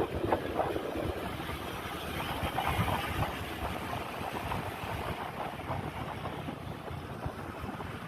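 Wind buffeting the microphone of a moving motorcycle, over the engine and road noise.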